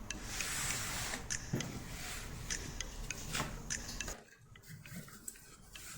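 Paper and cardboard being handled: rustling and light taps and clicks as a paper ladder is positioned and glued onto a cardboard carton.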